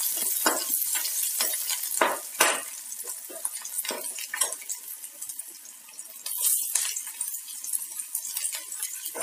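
Garlic cloves sizzling in hot oil in a frying pan, with a steady hiss and a metal spoon repeatedly knocking and scraping against the pan as they are stirred.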